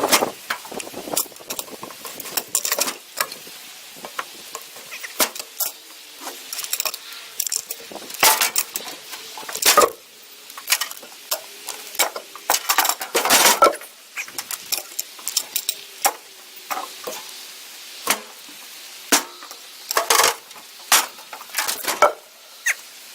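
Ratchet tie-down straps being taken off a trailer load of logs: irregular metallic clicks, clinks and rattles of the ratchet buckles and hooks, in clusters with short pauses between.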